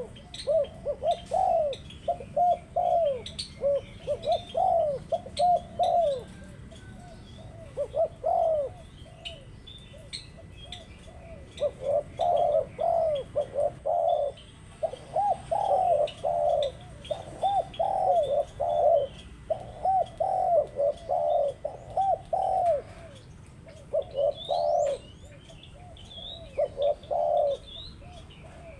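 Spotted doves cooing in repeated phrases that overlap and break off for short pauses now and then, with small birds chirping faintly above them.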